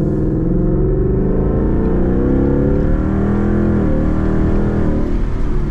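Modified Ford sports car's engine and exhaust revving up as the car accelerates, with a brief dip in pitch about four seconds in.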